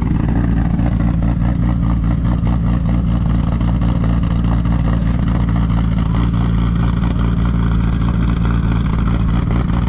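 Engine with a big aftermarket camshaft idling at a steady speed, its exhaust pulsing rhythmically.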